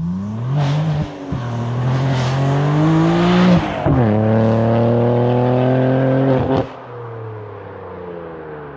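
2021 BMW M3's S58 twin-turbo inline-six, through a catless, valveless InkedCustom race exhaust, accelerating hard through the gears in a manual car. The engine note climbs, drops at one upshift after about a second and another after about three and a half seconds, then cuts off sharply when the throttle is lifted near seven seconds in, leaving a quieter, steady, slowly falling note.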